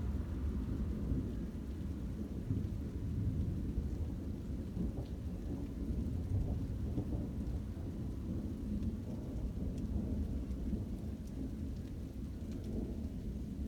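Thunder rumbling continuously through a thunderstorm, low and steady without a sharp crack, with rain.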